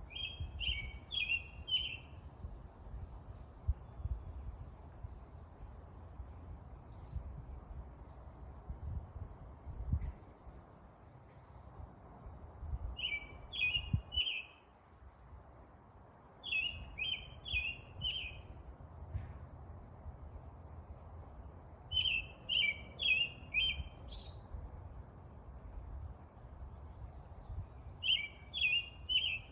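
Birds chirping: one bird repeats a quick phrase of four or five notes every few seconds, while another gives thin, high single chips about once a second. A low rumble runs underneath.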